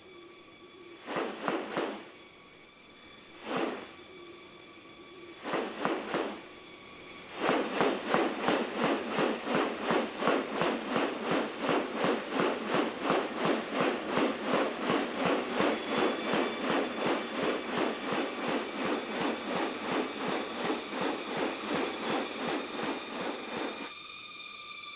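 Rainforest ambience with a steady high insect drone. Over it come a few separate sharp bursts, then from about seven seconds in a long, regular run of sharp pulses, about three a second, that stops shortly before the end.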